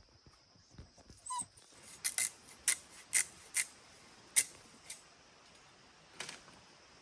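A series of sharp, irregular clicks or knocks, about eight in a few seconds, preceded by a brief squeak.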